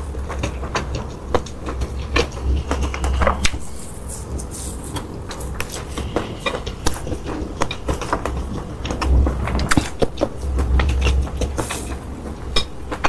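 Close-miked eating: chewing with many irregular short, sharp crunches and mouth clicks.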